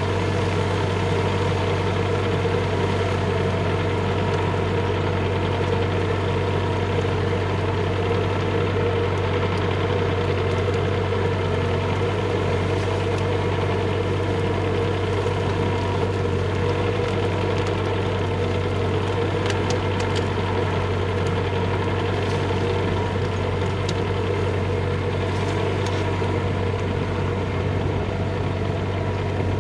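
Bobcat E35 mini excavator's diesel engine running steadily, with a few faint clicks and knocks in the second half.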